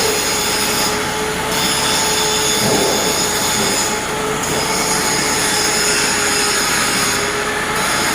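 Loud, steady industrial machinery noise: a low hum with high squealing whines on top, the whines dropping out briefly about every three seconds.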